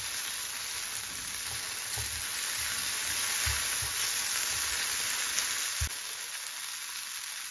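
Green peppers sizzling as they fry in vegetable oil in a pot, stirred with a silicone spatula that knocks low against the pot a few times. The peppers were first cooked in water until dry, so the oil sizzles evenly without spattering.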